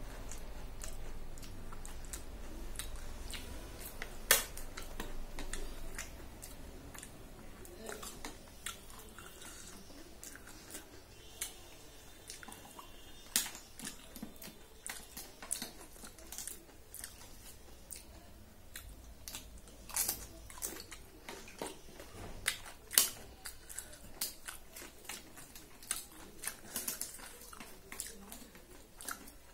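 Chewing and crunching of crisp papad with tomato chutney, with sharp crackles at irregular intervals.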